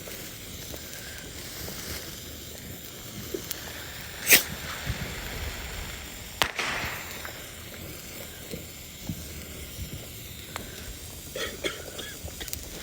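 Small fireworks going off: two sharp pops, one about four seconds in and a crack about six and a half seconds in, over a faint steady hiss.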